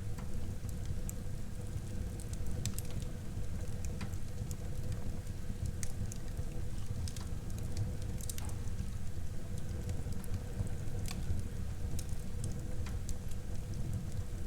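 Wood fire burning in a fireplace: a steady low rumble of flames with scattered crackles and pops from the burning wood, a few each second.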